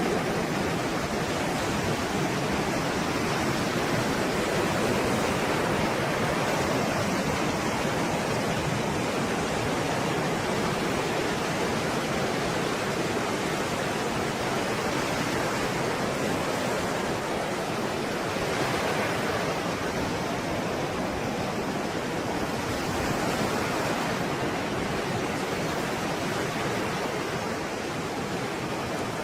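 Stormy sea waves: a dense, steady wash of surf with slow, gentle swells in loudness.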